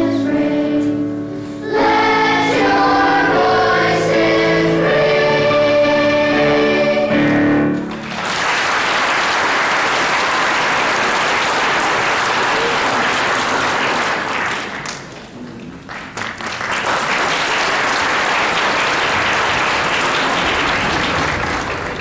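A choir sings the last bars of a song, ending on a held note about eight seconds in, and the audience breaks into applause. The clapping dips briefly a little past the middle, then swells again.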